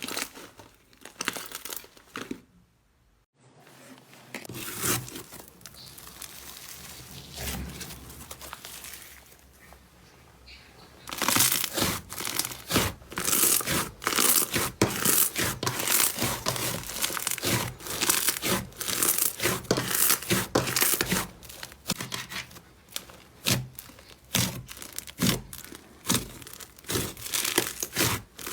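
Slime being squeezed and worked by hand, making sticky crackling and popping. After a brief gap about three seconds in, it goes quieter for several seconds, then turns to dense, rapid crackles and pops from about eleven seconds on.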